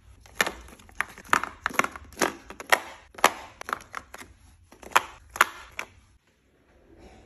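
Kitchen items being handled: a quick run of about a dozen sharp clicks and knocks with short rustles of packaging, stopping about six seconds in.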